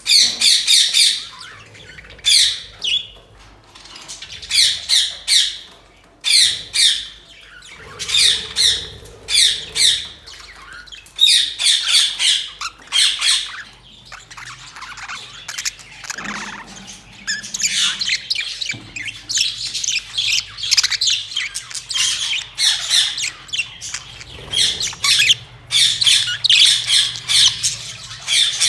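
A colony of budgerigars calling, with quick high-pitched chattering calls coming in bursts every second or two and overlapping almost continuously in the second half.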